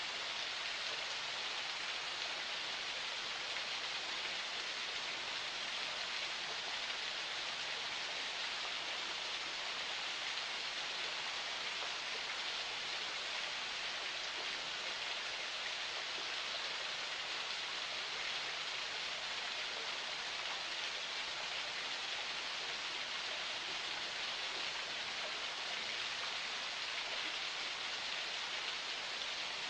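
Forest spring water flowing: a steady, even rush of running water with no breaks or changes.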